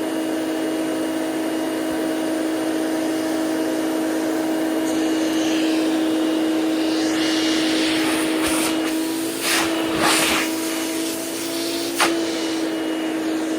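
Hoover Celebrity QS canister vacuum running steadily with a constant motor whine. In the second half come several short rushes of air and a sharp click as the suction at the wand is tested.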